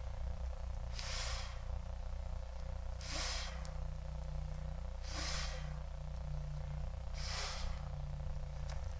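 Heavy breathing close to the microphone: a hissing breath about every two seconds, over a steady low rumble.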